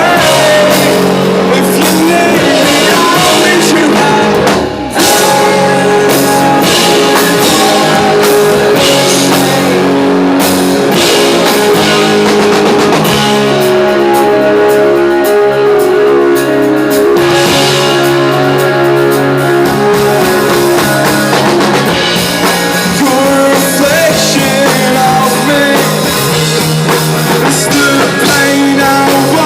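A rock band playing live: electric guitars, drum kit with cymbals, and a singing voice. The playing drops out for a moment about five seconds in.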